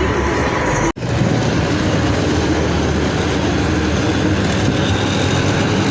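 Farm tractor engine running steadily with a heavy drone, as in a tractor pull run. The sound cuts out for an instant about a second in, then the drone carries on.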